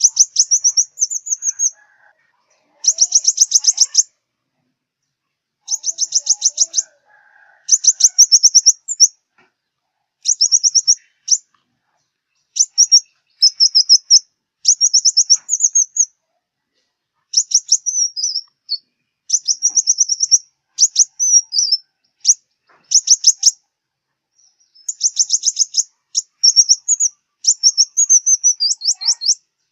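Sunbird ('five-colour sunbird') singing: fast, high, rattling chip series in bursts of one to two seconds, repeated with short pauses.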